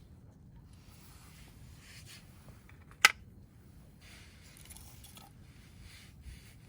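Wood fire burning with a soft hiss and faint crackle, broken by one sharp, loud crack about three seconds in.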